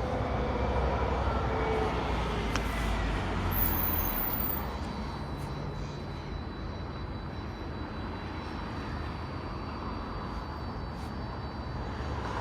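A vehicle passing close by: a low rumble with a faint gliding whine that fades away after about four seconds, leaving steady background traffic noise.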